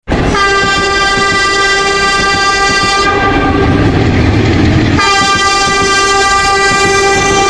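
Train horn sounding two long, steady blasts of about three seconds each, the second starting about five seconds in, over the continuous rumble of the moving train.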